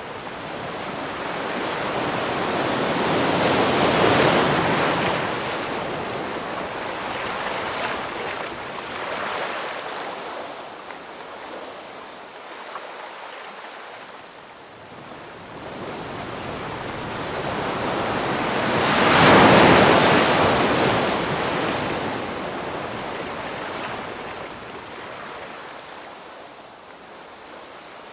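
Ocean waves breaking on the shore: one wave swells and breaks about four seconds in, and a larger one about nineteen seconds in. Each is followed by a long, fading wash.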